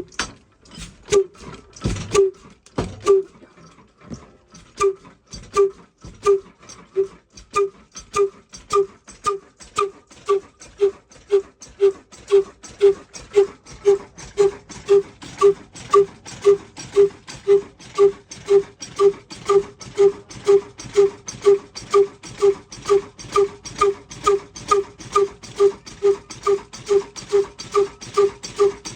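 Diesel engine starting from cold. A few uneven firing thumps catch in the first seconds, then settle into an even, slow beat that gradually quickens to about two to three beats a second.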